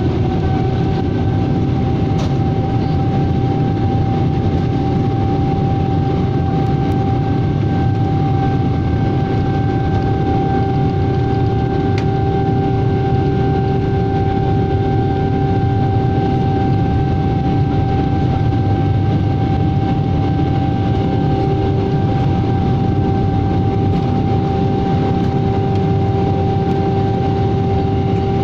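Jet airliner cabin noise during the climb after takeoff: a steady, loud rush of engine and air noise with a constant engine whine over it.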